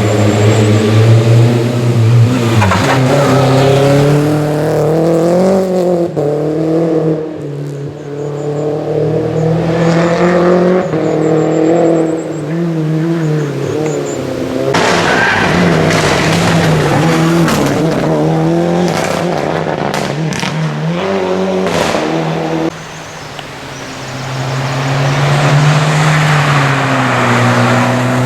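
Historic rally car engines driven hard on a stage, revving up and dropping back through gear changes so the pitch rises and falls repeatedly, with a brief dip a little before the last few seconds as the sound swells again.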